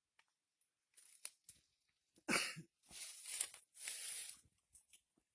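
A few short bursts of rustling and crinkling from something being handled, the loudest about two seconds in, with scattered small clicks between.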